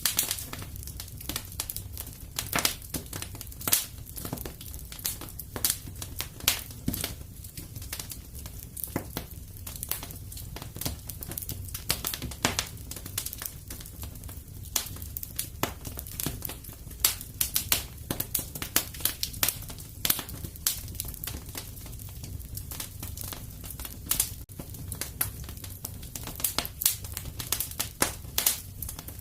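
Wood fire burning in a fireplace: irregular crackles and sharp pops, several a second, over a steady low rumble of the flames.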